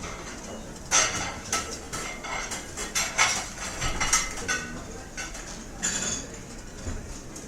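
Restaurant dining-room ambience: cutlery and dishes clinking and knocking against each other in a quick, irregular run, over a steady low background murmur.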